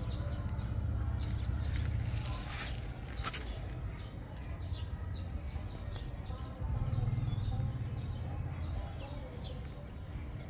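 Small birds chirping repeatedly over a steady low rumble of outdoor background noise, with two brief scratchy noises about two and a half and three seconds in.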